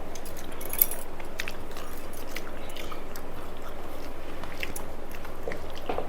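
A person chewing and biting through a meal of rice and fried sides, with scattered small crunchy clicks; the sharpest click comes a little under a second in. A steady background hiss runs underneath.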